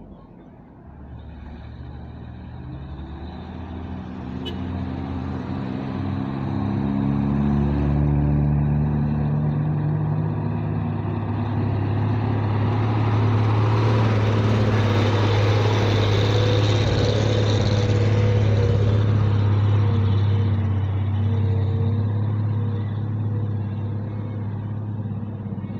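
A heavy truck's engine running under load on a steep uphill climb. It grows louder over the first several seconds, stays loud through the middle, then eases a little near the end, as if the truck is drawing close and passing.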